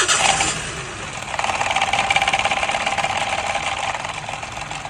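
Toyota car engine running with a steady low rumble. A loud rushing noise starts suddenly, and about a second and a half in a louder, fast-pulsing buzz sets in and eases off near the end.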